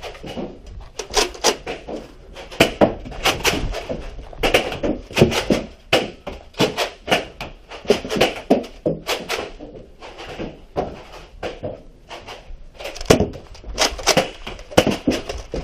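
Many sharp clacks and knocks in quick, irregular succession from Nerf Rival Apollo blasters being primed and fired, with foam balls hitting surfaces.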